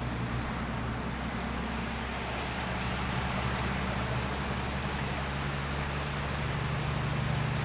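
Steady heavy rain falling, with a low steady hum underneath.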